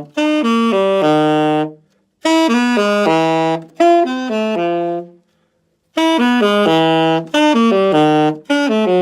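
Alto saxophone playing three descending arpeggio runs down toward the bottom of the horn. The first two settle on a held low note. The third run does not land its low note cleanly near the end: the airstream was not strong enough.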